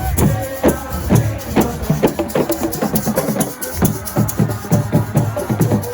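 Assiko percussion music: hand drums played in a fast, steady rhythm with shakers rattling along.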